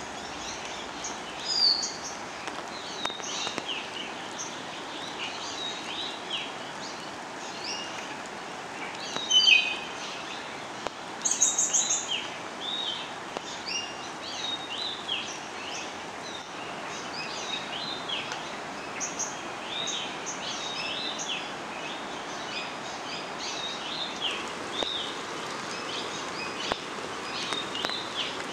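Many birds chirping in short, overlapping calls over a steady hiss, with a few louder calls standing out near the middle.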